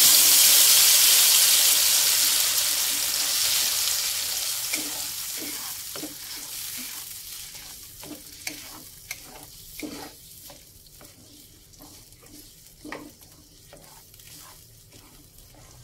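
Blended chili and tomato spice paste dropped into hot cooking oil in an aluminium wok: a loud sizzle that fades steadily over several seconds as the paste starts to fry. From about five seconds in, a metal spatula scrapes and taps against the wok as the paste is stirred.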